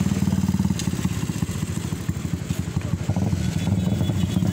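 A 125 cc motorcycle engine running steadily at close range.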